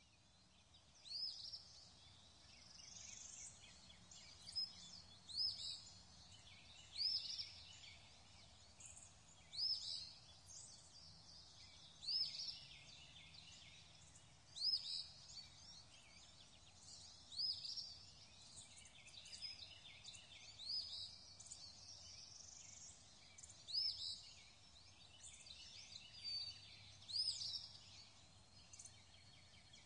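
Birds chirping faintly: short high calls recurring every one to two seconds over a soft steady hiss.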